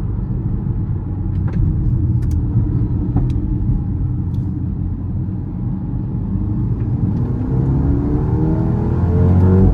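Mercedes-AMG A35's 2.0-litre turbocharged four-cylinder engine running steadily, with a few faint sharp ticks in the first few seconds. About seven seconds in, it revs up under acceleration, its pitch climbing steadily until it drops off sharply at the very end, as at an upshift.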